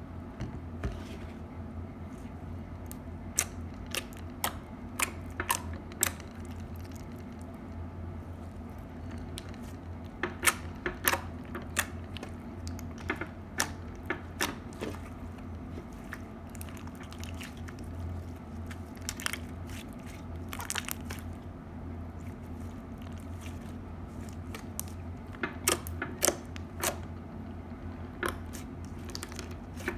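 Crunchy slime being worked by hand, giving clusters of sharp crackling, crunching pops between quieter stretches. A steady low hum runs underneath.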